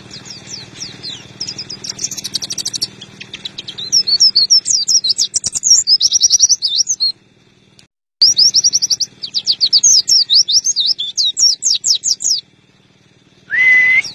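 A pleci (white-eye) singing: fast runs of high, rapid chirps in two long bouts with a short break between them. A brief rising tone comes near the end.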